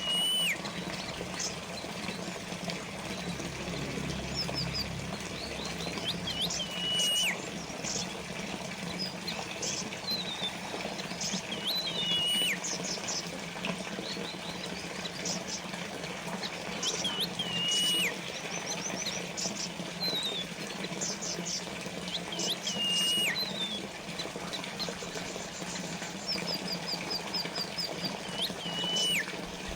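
Water trickling and splashing steadily, as from a small fountain. A songbird whistles over it about every five to six seconds, each call a quick rising note into a held whistle that falls away at the end, with short high trills in between.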